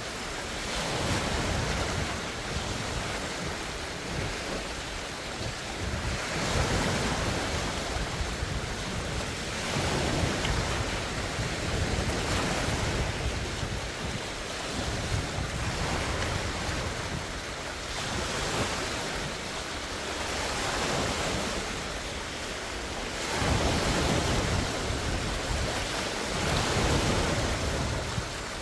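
Large lake waves breaking and washing on the shore in strong wind, swelling and easing every few seconds, with wind noise on the microphone.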